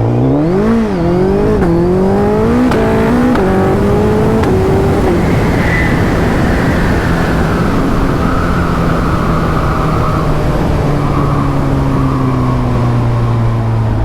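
Suzuki Hayabusa Gen 3's 1340 cc inline-four under a hard full-throttle pull, the revs climbing and stepping through several quick upshifts in the first few seconds. After that, heavy wind noise covers the engine as the revs slowly fall away.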